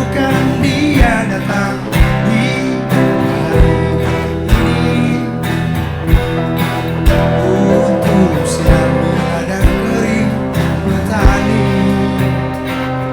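A band playing a song live: guitar with a singing voice, and a low thump about once a second.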